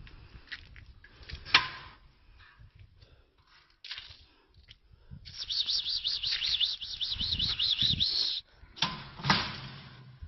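A songbird singing a fast, warbling high trill for about three seconds in the second half. Sharp knocks come about one and a half seconds in and again near the end, the first being the loudest moment.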